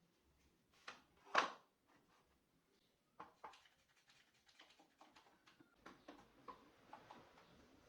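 Wooden pieces and tools being handled on a workbench: two knocks about a second in, the second louder, then a run of light, irregular taps and clicks.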